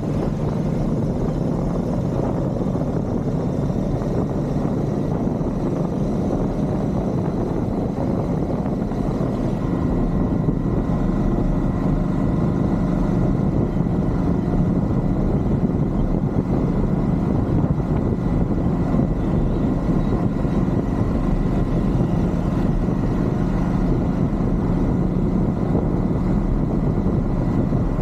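Royal Enfield Shotgun 650's parallel-twin engine and exhaust running steadily while the motorcycle is ridden, getting a little louder about ten seconds in.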